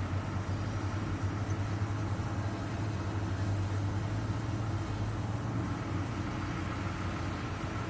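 Steady low engine hum with an even rushing noise, unchanging throughout.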